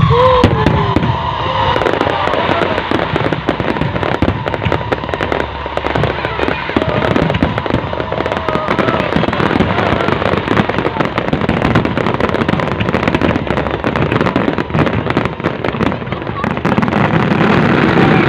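New Year fireworks display going off continuously: a dense run of bangs and crackles, with a crowd's voices over it.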